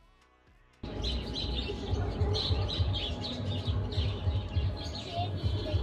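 Small birds chirping over and over above a low rumbling noise, starting abruptly about a second in.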